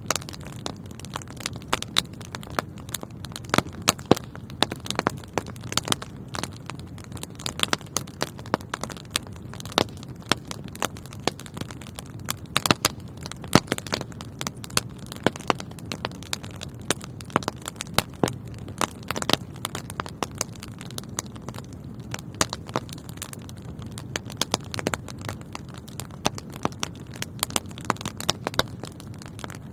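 Wood fire in a fireplace crackling, with frequent sharp irregular pops and snaps over a low steady rush of burning.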